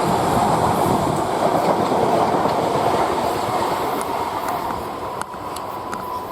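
Electric multiple-unit passenger train running through the station close by: a steady rush of wheel and rail noise with a clickety-clack of wheels over rail joints, easing slightly near the end as a thin steady whine comes in.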